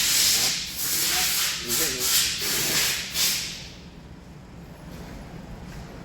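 A loud steady hiss with a voice faintly under it, stopping about three and a half seconds in; a short burst of the same hiss comes right at the end.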